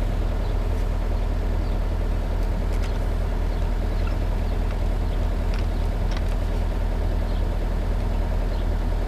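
Yanmar crawler excavator's diesel engine running steadily at idle, with a few faint ticks in between.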